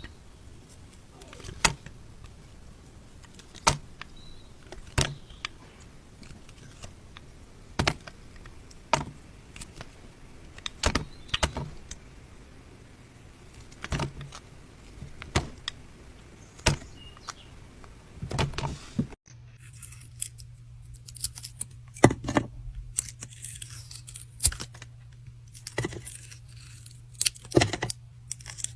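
A knife slicing through bars of soap, each cut a crisp crunch, about one every second and a half. About two-thirds of the way through the sound changes abruptly to a new take with a low steady hum underneath and quicker crunchy cuts.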